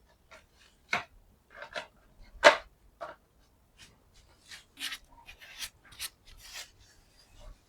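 Irregular clicks, knocks and scrapes of hand tools and metal engine parts being handled during a timing belt and tensioner fit, the sharpest knock about two and a half seconds in and a busier run of small clicks and rubs in the second half.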